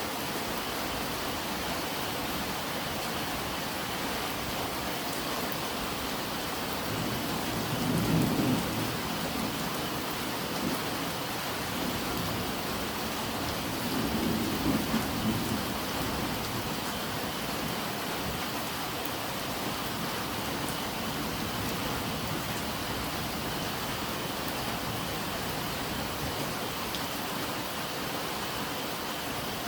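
Steady rain falling, with two short low rumbles of thunder, about eight seconds in and again around fourteen seconds.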